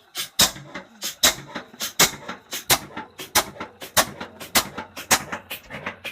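Old Hornsby diesel engine firing with sharp, regular knocking beats that quicken from about two and a half to about four a second as it picks up speed just after being started by hand.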